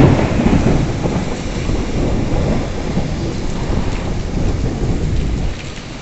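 Rain falling steadily while a roll of thunder rumbles on, easing off near the end.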